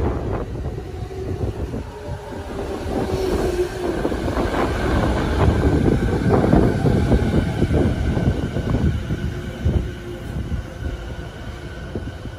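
JR 209 series (2000/2100 subseries) electric commuter train pulling in along the platform and slowing to a stop. Its wheels rumble and clatter over the rail joints, swelling toward the middle and easing near the end, with a faint high steady whine in the second half.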